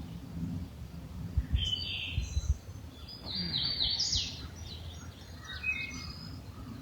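Wild birds singing: a short call about a second and a half in, a quick run of high stepped notes around three to four seconds, and a few lower notes near the end. A few soft low thumps sound under the first call.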